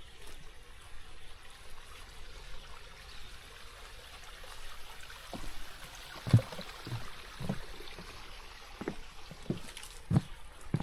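Water trickling and running. In the second half come a few short, dull thumps, the strongest a little past the middle.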